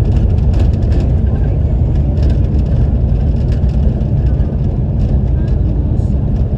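Car driving, heard from inside the cabin: a steady low rumble of engine and tyres, with scattered light clicks and rattles.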